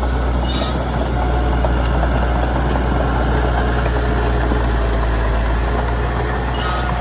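Komatsu D31PX bulldozer's diesel engine running steadily with a deep hum, with a short sharp noise about half a second in and again near the end.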